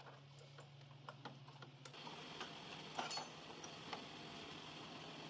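Scattered light clicks and ticks over a steady low hum; the hum stops about two seconds in and a steady hiss carries on.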